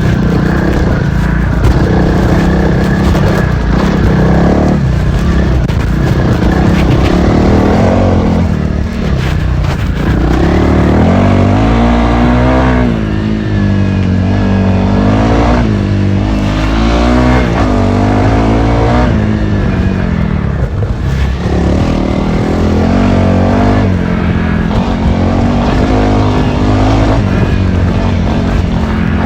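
Honda CRF300L's single-cylinder four-stroke engine revving up and down repeatedly as it is ridden hard off-road, its pitch rising and falling many times over.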